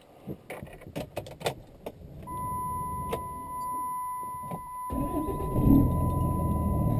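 Clicks and rattles of keys and cab fittings, then a steady electronic chime from about two seconds in. About five seconds in, the pickup's 5.9 L Cummins inline-six turbo-diesel cranks, starts and settles into a loud idle under the chime.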